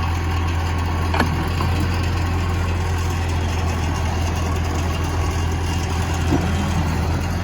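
Caterpillar 426 backhoe loader's diesel engine running steadily, with a sharp clank about a second in and a lighter one near the end.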